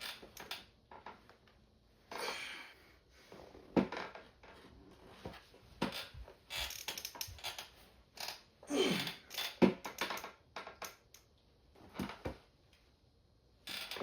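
Irregular knocks, clicks and short rustles of equipment and clothing being handled in a gym, with a sharper knock about four seconds in.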